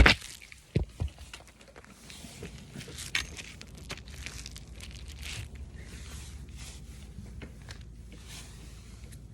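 Plastic bumper cover being handled and fitted: a sharp knock at the start, two more thuds about a second in, then scattered clicks and rustling over a low steady hum.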